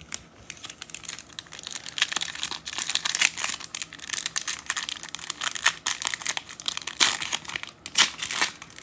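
Plastic trading-card pack wrapper crinkling and tearing as a pack is ripped open and handled, a dense run of crackles.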